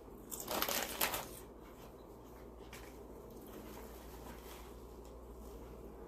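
Paper or wrapper crinkling for about a second near the start, then a faint steady low background.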